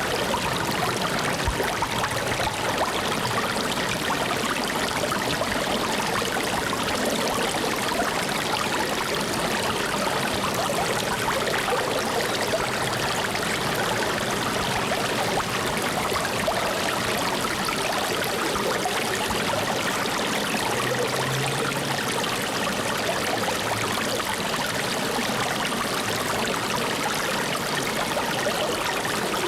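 Flowing stream water running steadily: an even rushing with no breaks or changes.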